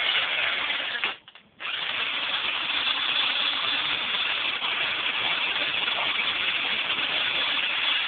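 18-volt cordless drill spinning an engine valve against a wire brush to scrub carbon off it. It runs steadily with a rasping hiss, broken by one short stop about a second in.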